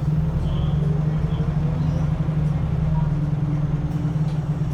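Scania L94UB city bus's diesel engine running with a steady low drone, heard from on board the bus.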